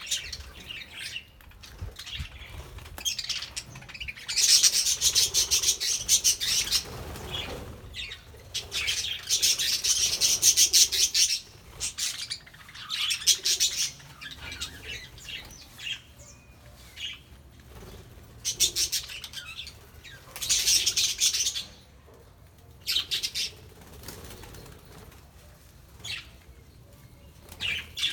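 A flock of budgerigars chattering in repeated bursts of rapid, rattling high-pitched calls, with short quieter gaps between.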